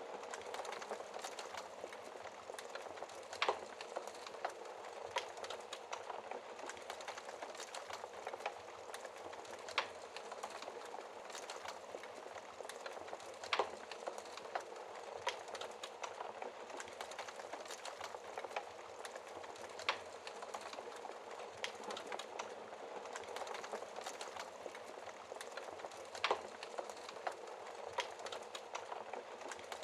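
Wood fire crackling steadily in a fireplace: a dense run of small crackles, with a sharper, louder pop every five or six seconds.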